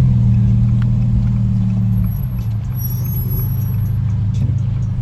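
Car's engine and road noise heard from inside the cabin while driving, a steady low drone that eases off slightly about two seconds in.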